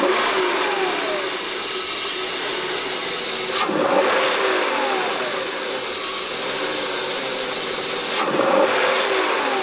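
Car engine revved three times, about four seconds apart, each rev falling back to idle, with the home-built HHO hydrogen cell switched on and feeding its gas into the intake.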